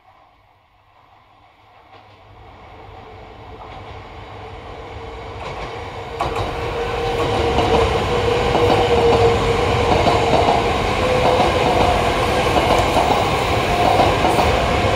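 A JR East E3 series 2000 'Tsubasa' Shinkansen train runs through the station without stopping. It grows louder for several seconds as it approaches and jumps louder at about six seconds as the front draws level. It then holds as a loud, steady rush of wheels on rail with a steady hum and some clatter as the cars pass.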